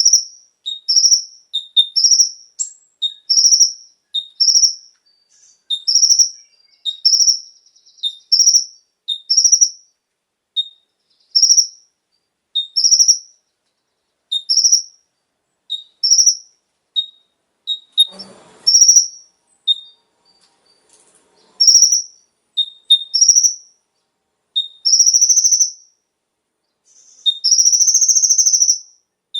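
Kolibri ninja (ruby-cheeked sunbird) calling over and over: short, high two-part calls, a brief lower note then a higher slurred note, about one a second, with longer drawn-out notes near the end.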